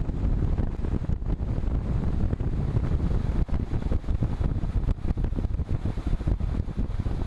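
Wind buffeting the microphone of a camera riding along on a road bike: a steady, low, fluttering rumble.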